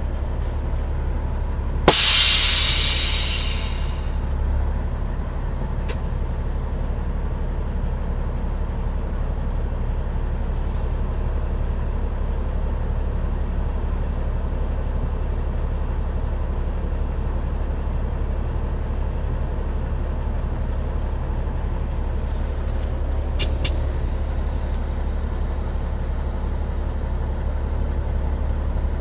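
Heavy diesel truck engine running steadily, with a sudden loud hiss of air from the air brakes about two seconds in that fades away over the next two seconds. A few faint clicks follow later.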